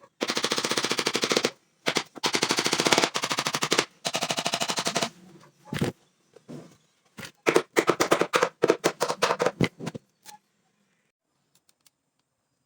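Cordless impact driver driving screws into wood, its hammer mechanism rattling in fast bursts. There are three long runs over the first five seconds, then a series of short bursts as the screws seat.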